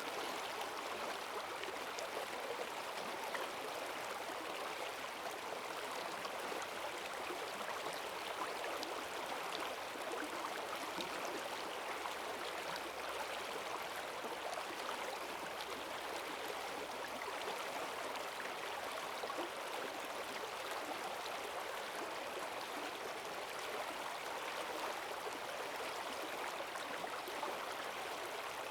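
Forest stream running high after heavy rain, a strong current rushing and gurgling over stones in an even, steady flow.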